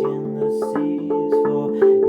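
Handpan played as a melody: steel notes struck in a steady rhythm, each ringing on and overlapping the next.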